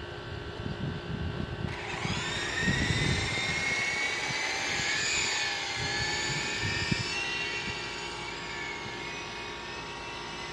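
Extreme S-8G electric RC helicopter's motor whining. Its pitch rises sharply about two seconds in as the throttle comes up, wavers through throttle corrections, then eases off after about seven seconds. Gusty wind buffets the microphone at the start.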